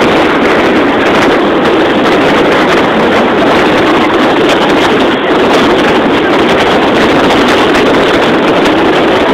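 Fireworks going off continuously at close range, a loud, steady, distorted rush of crackling with no single bang standing out, overloading the microphone.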